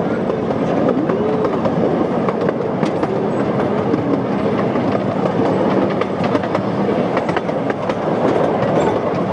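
Miniature railway train running on its track, heard from aboard an open carriage: a steady rumble of wheels on rails with a rapid run of clicks from the rail joints as the train picks up speed.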